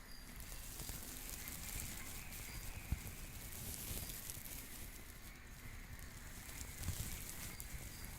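Night ambience of a stream murmuring and trickling with a crackling patter, with faint short high chirps every second or so and a single soft knock about three seconds in.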